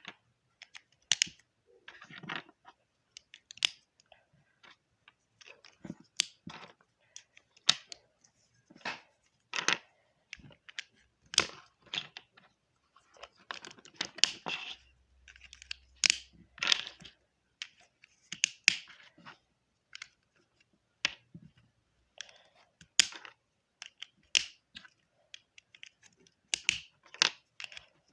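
Rasti plastic building bricks clicking and clattering as pieces are handled and snapped together, in irregular sharp clicks with short bursts of rattling.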